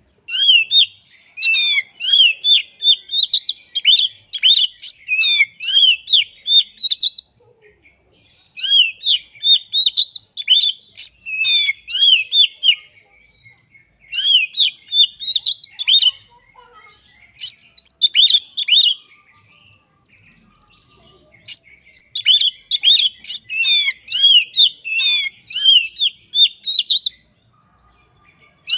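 Oriental magpie-robin (kacer) singing a loud, fast, varied song full of rapid rising and falling notes and mimicked phrases, in four long bouts broken by short pauses.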